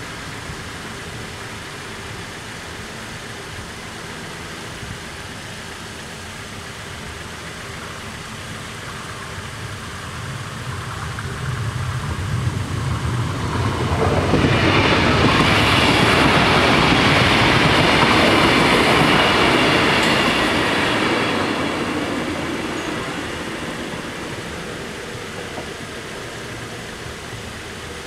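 Diesel multiple-unit train, an Arriva LINT 41, passing over the level crossing. Its engine and wheel-on-rail noise build up, are loudest for several seconds in the middle as it goes by, then fade.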